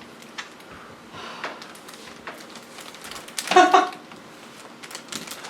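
Quiet room tone with a few faint knocks, broken about three and a half seconds in by one short, loud vocal sound from a performer.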